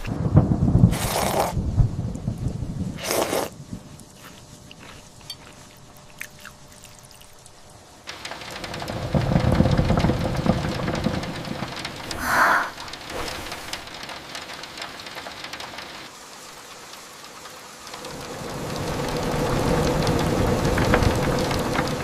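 Steady rain with deep rolls of thunder, swelling twice, in sections that change abruptly.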